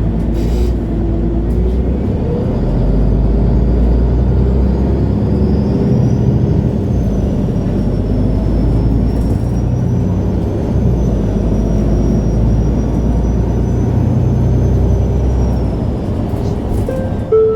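MAN Lion's City G articulated city bus driving, heard from inside the passenger cabin: a steady low engine and drivetrain rumble that swells and eases, with a faint high whine rising and falling above it. A brief chime comes right at the end.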